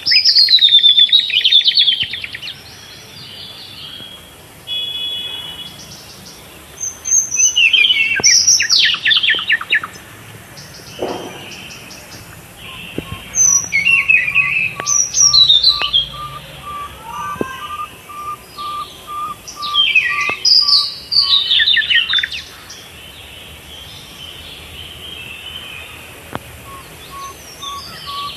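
Songbirds singing. One bird repeats a loud song phrase about every six seconds: a whistle sliding down in pitch that ends in a fast trill. A second bird gives a steady series of short, lower repeated notes for several seconds midway.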